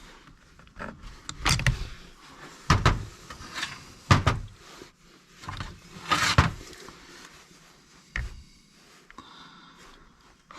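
Small hand tools (hooks and picks) clicking, knocking and scraping against chainsaw parts while a fuel hose is worked loose. A handful of separate knocks and short scrapes come every second or two, the loudest about four seconds in.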